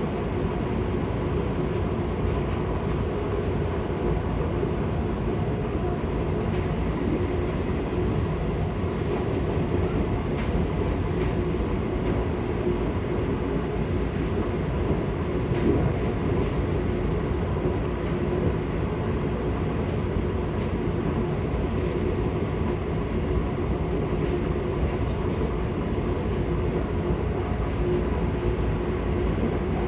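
Seibu 6000 series electric train running at speed, heard from inside a passenger car: a steady rumble of wheels on rail with an even hum running through it.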